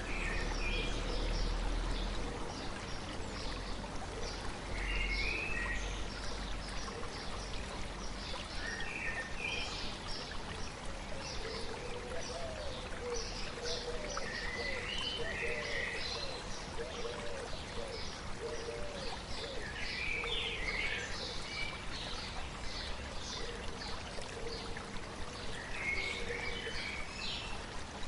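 Stream flowing steadily, with birds singing: one bird repeats a short phrase about every five seconds over scattered higher chirps.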